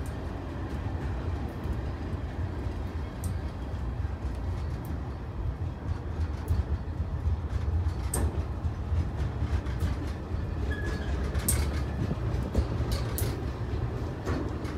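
Freight train of centerbeam lumber cars rolling past: a steady low rumble of wheels on rail, with scattered clicks and clanks and a short squeal about ten seconds in.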